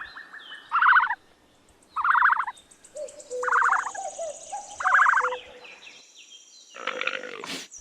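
A bird calling: about five rapid, rattling calls in a row, each about half a second long, with faint higher chirps between them.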